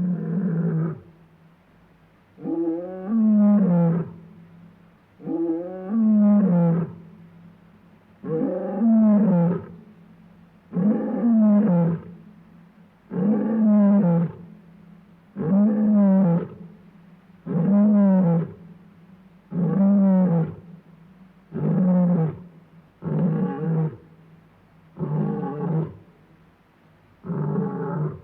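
A large animal roaring over and over in a regular series, about one call every two seconds, each call rising and then falling in pitch.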